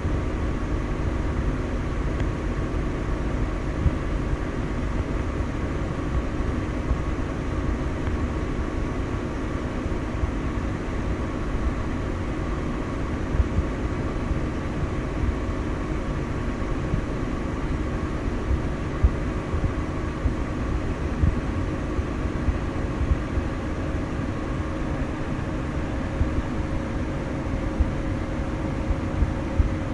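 Steady running of a farm vehicle's engine heard from inside its cab, with a constant hum and a few small knocks.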